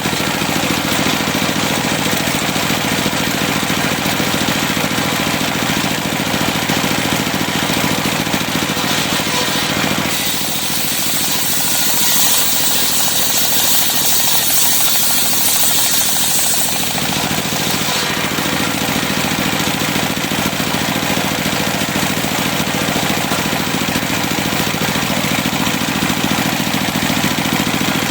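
Engine-driven circular sawmill running steadily. From about ten seconds in to about seventeen seconds, a loud hissing whine rises as the blade cuts through cempaka timber, then it falls back to the steady running drone.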